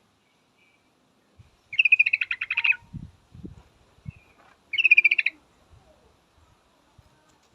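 Yellow-vented bulbul (trucukan) calling: two short bursts of rapid, bubbly chattering notes a few seconds apart. This is the female's call that is used to lure males to answer.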